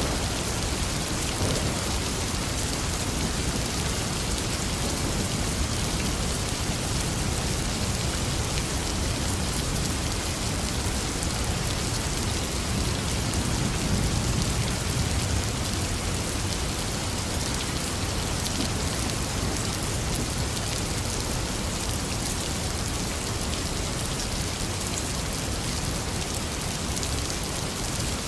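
Steady heavy rain falling, an even continuous hiss of drops on surfaces, with a low rumble swelling briefly about halfway through.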